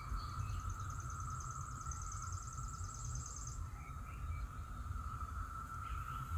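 Outdoor neighborhood ambience: a steady high-pitched drone and a low rumble, with a fast high trill over the first half and a few faint chirps.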